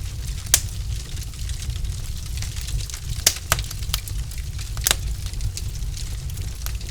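Logs burning in a fireplace: a steady low rumble under scattered small crackles, with a few sharp pops, the loudest about half a second in and others around three and five seconds in.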